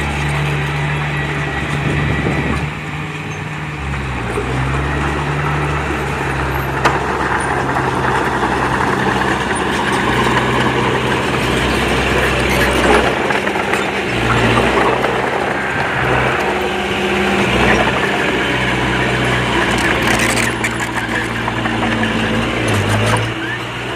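Diesel engine of a small Komatsu D20P crawler bulldozer running under working load, its pitch rising and falling several times as it works.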